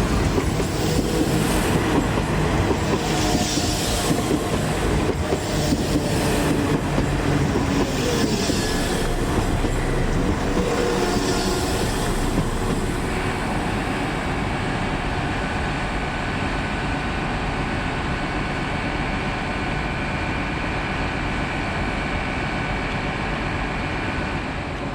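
Two coupled Class 172 Turbostar diesel multiple units arriving, with wheels clattering over the rails and brief squeals as they brake for about the first half. Then a steadier hum with a constant whine as the train stands.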